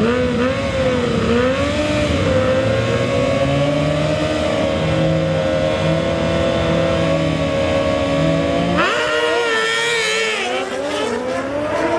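Racing engines at a drag strip running at high, fairly steady revs for about nine seconds. The sound then changes abruptly, its low end dropping away and the pitch jumping higher and wavering.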